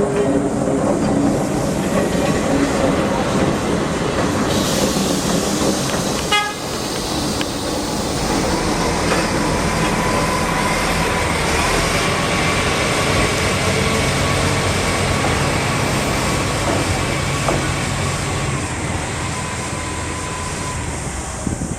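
Diesel-hauled open-car sightseeing train running past over a level crossing, with a steady engine hum and rail noise. About six seconds in there is a brief quick rattle. From about nine seconds to eighteen seconds a thin steady whine rides over the running noise.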